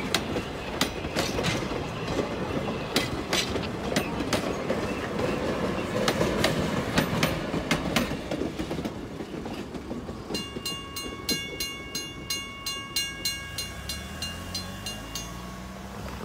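Railroad passenger cars and a caboose rolling over a grade crossing, wheels clacking over the rail joints. About ten seconds in, the crossing's warning bell is heard ringing steadily, about two strikes a second, as the train clears, and it stops near the end.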